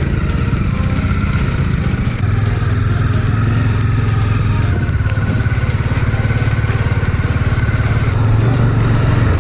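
Bajaj Dominar 400's single-cylinder engine running steadily while under way, a steady low engine note.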